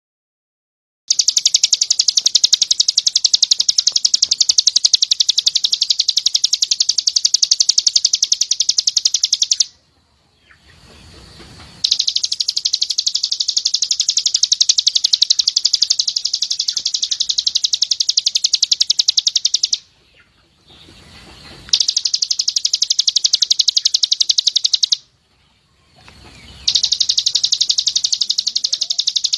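White-eye (pleci) 'tembakan' song: long runs of very rapid, high, repeated notes fired like a machine gun. It comes as four runs of several seconds each, split by short pauses.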